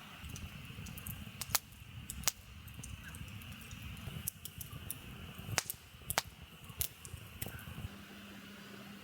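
Wood fire in a fire pit crackling, with sharp irregular pops over a low rumble that stops about eight seconds in.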